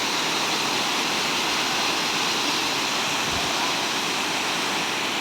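Waterfall: water pouring and splashing down in a steady, unbroken rush.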